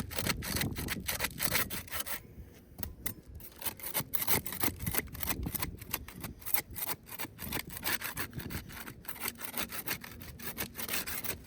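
Flat bar scraping and prying under asphalt composition shingles: a dense, irregular run of rough scraping strokes, with the shingles' granules grinding off as they are worked loose.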